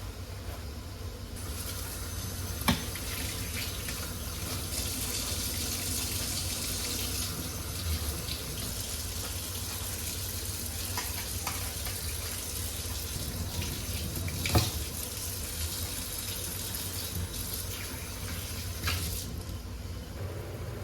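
Kitchen tap running water into a sink: the hiss of the stream starts a second or so in and stops near the end, with three sharp knocks along the way.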